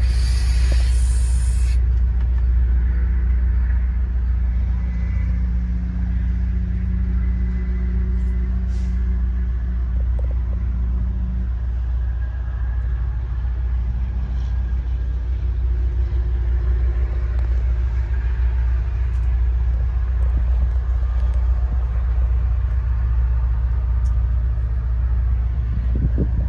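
Heavy diesel truck engine running at a steady idle, a deep low rumble.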